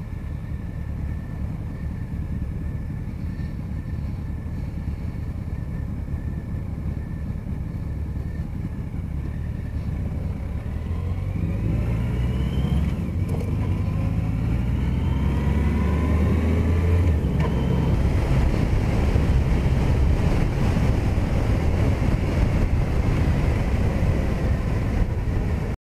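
Yamaha FJR1300ES inline-four motorcycle engine idling at a stop, then pulling away about ten seconds in, its note rising through two gears. Then it cruises steadily under a louder rush of wind and road noise.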